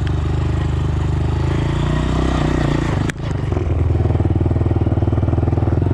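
Dirt bike engine running while riding. There is a brief sharp dip about three seconds in, then the engine comes back with a strong, fast pulsing beat.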